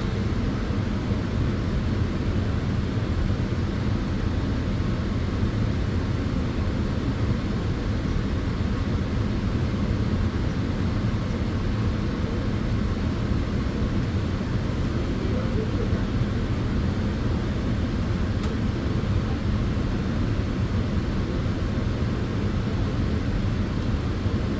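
Tanning bed running steadily: a constant low hum with a lighter hiss above it, unchanging throughout.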